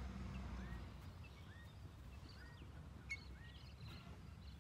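Birds calling outdoors: one bird repeats a short, upward-hooked chirp about once a second, with other scattered chirps, over a faint low rumble that eases after the first second.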